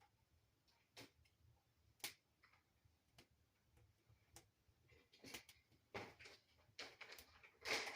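Wood fire crackling in a fireplace firebox. Single sharp pops come about a second apart, then the crackling grows denser and louder over the last few seconds.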